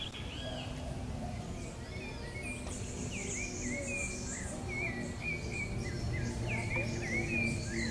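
Small birds chirping: a busy run of short, quick rising-and-falling calls, over a high hiss and a steady low background rumble.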